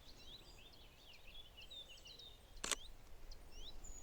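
Woodland birdsong of many short high chirps, with a single sharp click of a camera shutter firing about two and a half seconds in.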